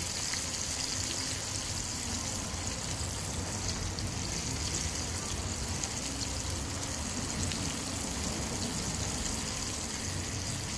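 Floured porgy fillets frying in a pan of hot oil: a steady, dense sizzle with faint crackles, over a steady low rumble.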